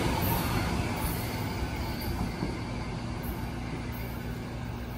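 Metro-North M3A electric multiple-unit train pulling away along the track, its running noise fading steadily as it recedes.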